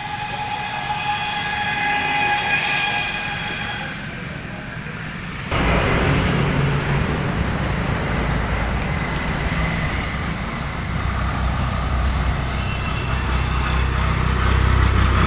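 Honda Activa scooter's single-cylinder four-stroke engine running, with a steady whining tone over the first few seconds. About five and a half seconds in, the sound turns suddenly louder and deeper and holds steady.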